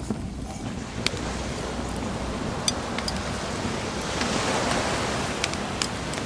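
Sea waves washing on a beach, one swelling in and fading about four to five seconds in, with a wood bonfire crackling: a handful of sharp pops scattered through.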